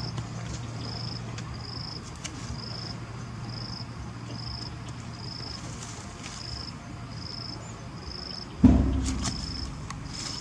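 An insect calling steadily in short high chirps, a little under two a second. Near the end a sudden loud thump dies away over about a second.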